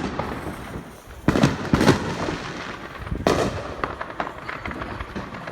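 Consumer fireworks going off: two loud bangs close together about a second in and a third near the middle, with crackling between them.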